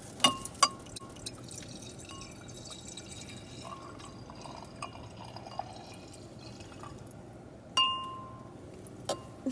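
Wine glasses clinking with short, bell-like rings: two light clinks in the first second, a louder clink that rings on briefly near the end, and another just before it closes. A faint trickle of wine being poured sounds in the middle.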